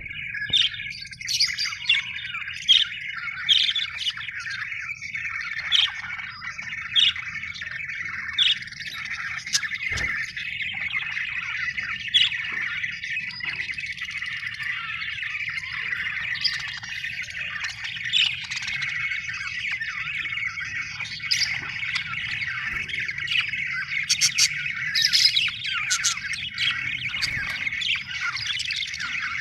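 Many budgerigars chattering and warbling all at once, with sharper, louder chirps and squawks standing out every second or so. There is a single click about ten seconds in, over a faint low hum.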